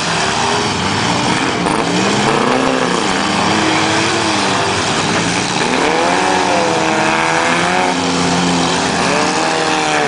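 Several four-cylinder demolition derby cars' engines revving at once, their pitch rising and falling over a dense, steady noise of running engines.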